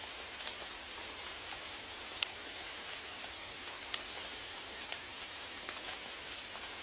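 Steady rain hiss with scattered individual raindrops ticking sharply on a surface, one drop louder about two seconds in.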